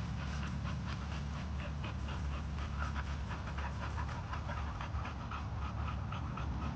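Dog panting rapidly and steadily, about four breaths a second, over a steady low hum.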